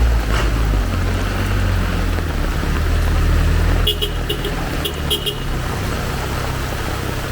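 A motor vehicle running close by with a low rumble that fades after about five seconds, and a few short horn beeps about four to five seconds in, over steady heavy rain.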